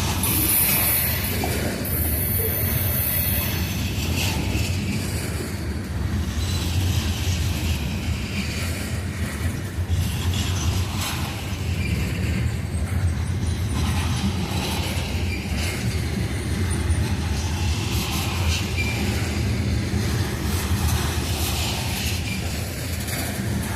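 Coal train cars rolling past: a steady low rumble of steel wheels on rail with scattered clicks from the wheels. A brief high-pitched wheel squeal sounds near the start.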